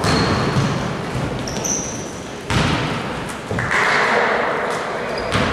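Basketball play in a gym: a basketball bouncing and thudding on the court, with a couple of sharp thumps in the middle and a few short high squeaks over a steady hall noise.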